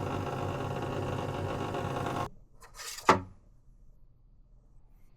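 Espresso machine pump buzzing steadily, then cutting off abruptly about two seconds in, followed by a short hiss and one sharp click.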